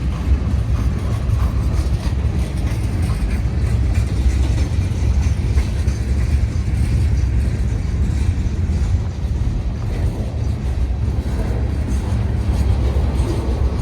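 Union Pacific freight train rolling past at a railroad crossing, a steady low rumble of its wheels and cars on the rails.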